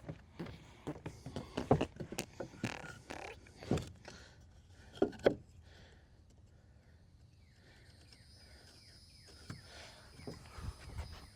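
Irregular knocks and thumps, several sharp ones in the first half, as of wood being handled and struck; quieter later, with a few faint descending chirps and some low thumps near the end.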